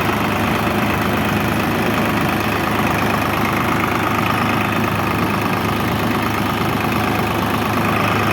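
Tractor engine running steadily at an even, constant speed.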